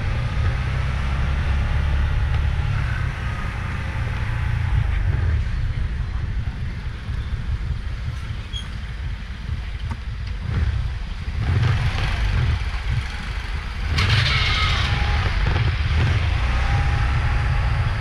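Road traffic heard from a moving motorbike: a steady low rumble of engine and road noise, with a brief louder hiss about fourteen seconds in.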